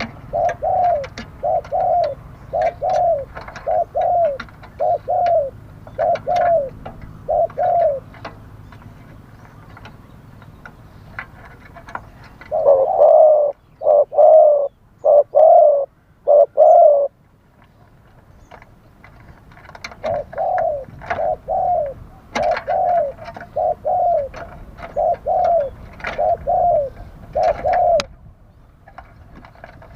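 Spotted doves cooing: runs of short coos, about two a second, broken by pauses of a few seconds, with the loudest run about halfway through. Faint chirps of small birds in between.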